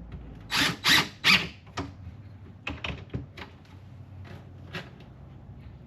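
A drill driving screws through a corner bracket into the cabinet in three short bursts, followed by several lighter clicks and knocks as the bracket and cabinet are handled.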